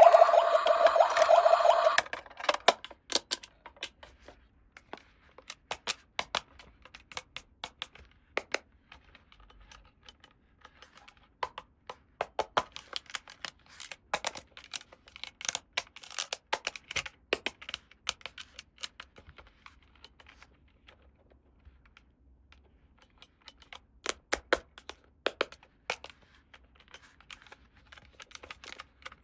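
Small plastic toy pieces being handled, giving quick light clicks and taps in irregular clusters with short pauses. In the first two seconds a louder pitched, buzzy sound cuts off.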